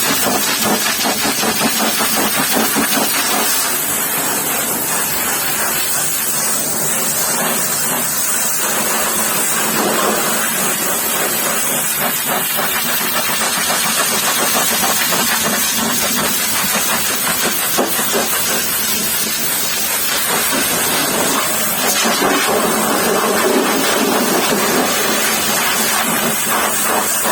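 Pressure washer jet spraying mud off a truck tire: a steady, loud hiss of spray whose tone shifts now and then.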